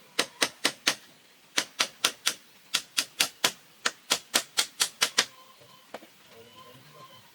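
A hand tool striking bamboo or wood in quick, sharp blows, about four a second, in short runs of four to six. It stops a little after five seconds in.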